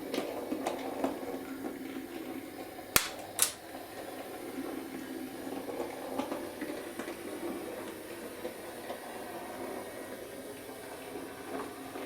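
Small electric motor and gears of a Bachmann Class 03 model shunter whirring steadily as it runs slowly along the track, with two sharp clicks about half a second apart roughly three seconds in.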